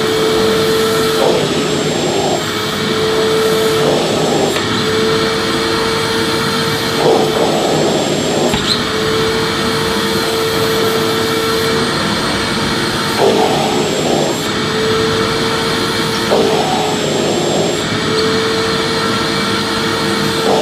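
Vacuum cleaner running steadily: a constant whine over the rush of air, with brief louder rushes every few seconds.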